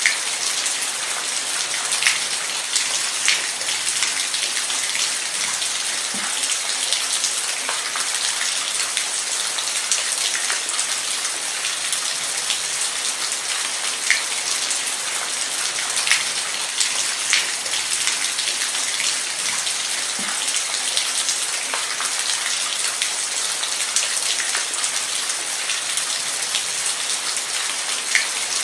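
Steady rain falling, a dense even hiss with many individual drops clicking sharply on a near surface.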